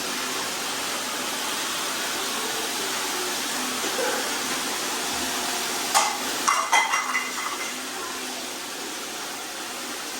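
Robot vacuums running, a steady whirring hiss of their suction motors. About six seconds in comes a sharp click, then a brief run of clinks and rattles.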